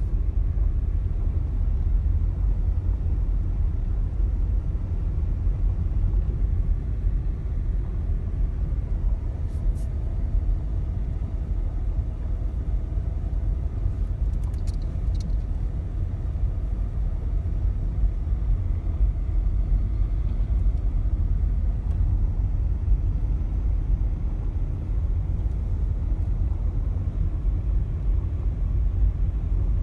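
Waterfall plunging, heard as a steady low rumble of falling water with no letup.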